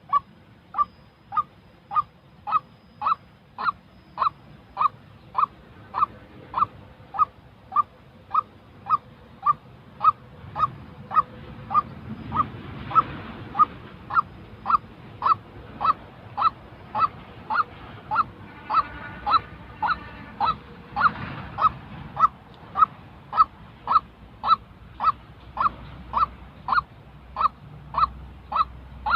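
White-breasted waterhen calling, a monotonous string of short honking notes repeated about twice a second without a break.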